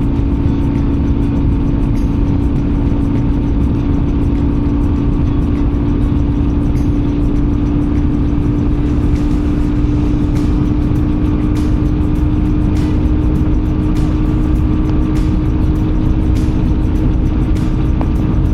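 Motorcycle engine running steadily at cruising speed, its note rising slowly, under heavy wind noise.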